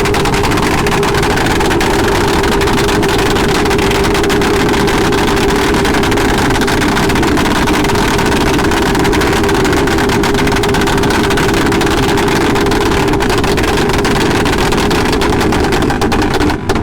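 Motorcycle engine running at a steady speed with wind rush, a continuous even drone that cuts off abruptly at the very end.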